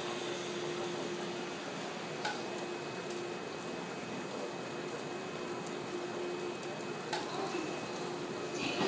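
JNR 185 series express electric train creeping slowly into a station platform: a steady hiss with a faint steady hum and a couple of light clicks, swelling as the train draws closer near the end.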